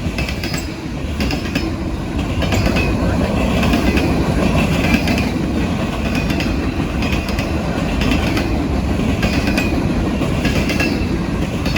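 Freight train cars rolling past, wheels clicking steadily over rail joints, with a rumble and a faint high wheel squeal.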